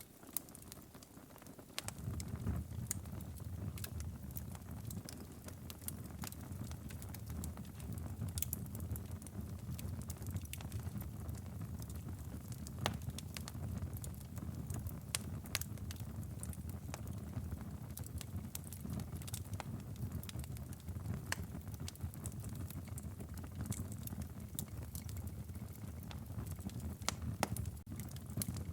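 Wood fire in a fireplace, crackling with scattered sharp pops over a steady low rumble of the flames. The low rumble comes in about two seconds in.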